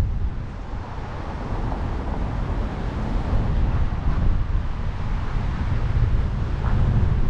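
Wind buffeting the microphone: a gusty low rumble that rises and falls, over a steady hiss of outdoor ambience.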